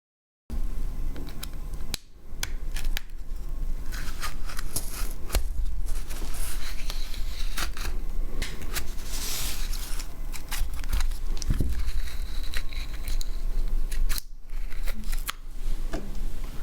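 Small repair tools clicking and scraping against a smartphone, with frequent sharp ticks and a low rumble from handling close to the microphone.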